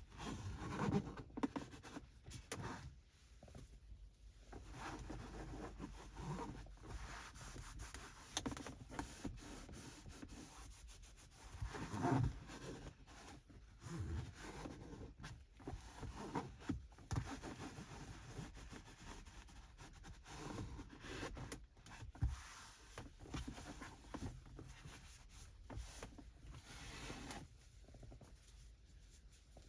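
Microfiber cloth rubbing over car interior surfaces in uneven wiping strokes, with a few light clicks and knocks.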